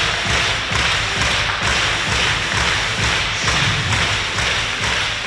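Arena crowd clapping in a fast, steady rhythm, with low thumps on each beat from cheer sticks or a drum.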